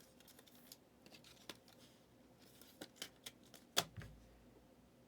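Faint clicks, taps and light rustling of trading cards and their packaging being handled, with a sharper tap near the end.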